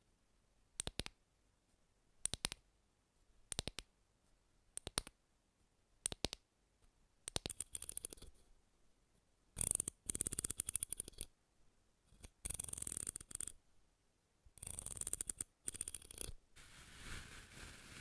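ASMR tapping: quick clusters of fingernail-like taps repeating about every 1.2 s. After about seven seconds it gives way to a few longer scratchy rubbing or brushing strokes, each lasting a second or two.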